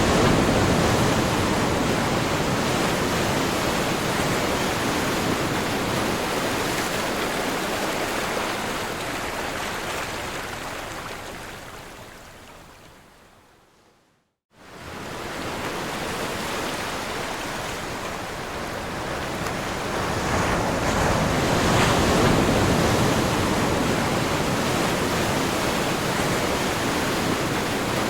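Ocean waves washing on a shore in a steady rush. A little past halfway it fades away to a moment of silence, then comes back in suddenly.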